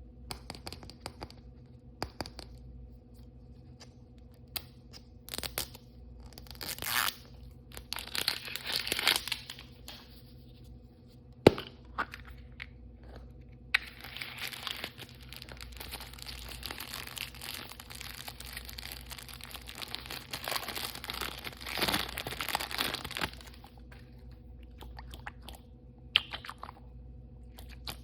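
Surprise-toy packaging being handled and torn open: short bursts of crinkling and tearing with scattered clicks and taps, one sharp click about a third of the way in, then about nine seconds of continuous crinkling.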